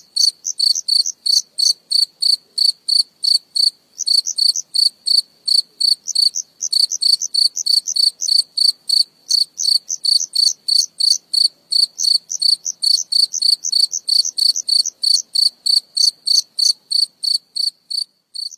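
A cricket chirping close up: a steady train of loud, high-pitched chirps, about four a second, broken by a few brief pauses.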